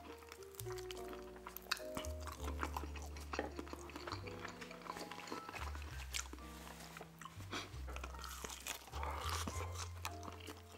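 Close-up chewing, biting and lip-smacking while eating buffalo chicken wings, heard as many small wet clicks. Background music with low held bass notes that change every second or so plays underneath.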